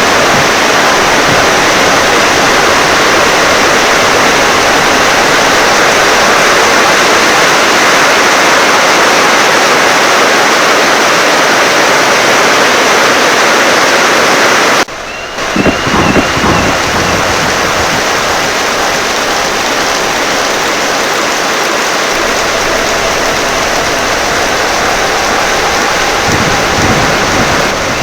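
Heavy rain pouring steadily. About fifteen seconds in it cuts abruptly to another stretch of rain, with low rumbles of thunder just after the cut and again near the end.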